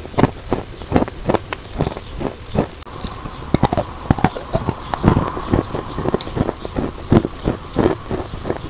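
Chewing a chunk of white chalk, close-miked: rapid, irregular crunches and clicks, several a second, as the chalk is ground to paste in the mouth.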